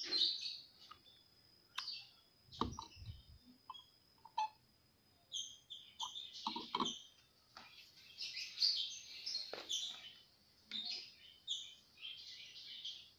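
Small birds chirping repeatedly in the background in short high calls, with a few light clicks and a dull low knock about two and a half seconds in from the meter and glass being handled on the table.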